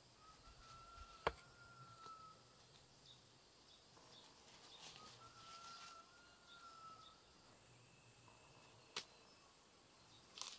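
Quiet rural background in which a bird gives a long, even whistle twice, about five seconds apart, over faint high chirps. A few sharp clicks cut through, the loudest about a second in.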